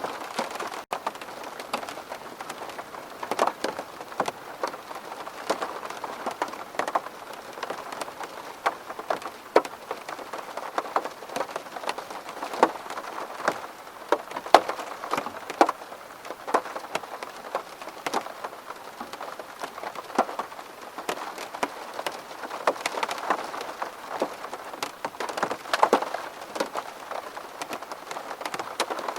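Rain falling on window glass: a steady patter with many separate drops tapping sharply and irregularly on the pane.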